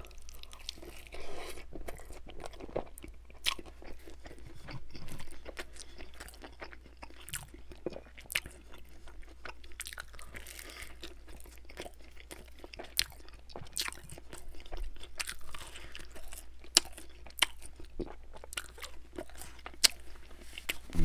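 Close-miked chewing of pizza crust dipped in a creamy sauce: bites, crunches and wet mouth clicks.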